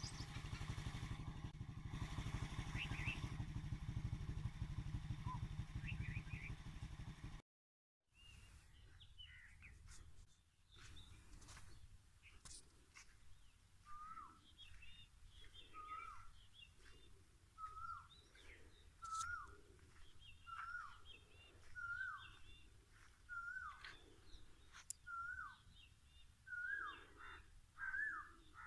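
A steady, loud rumbling noise, cut off abruptly after about seven seconds. After a short gap, a bird calls over and over: the same short, falling call about every second and a half, with faint chirps of other birds.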